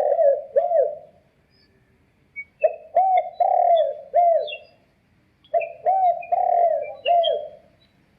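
Recorded bird call played through a small homemade bird-caller speaker: low cooing phrases of four or five arched notes, repeated three times with short pauses between them.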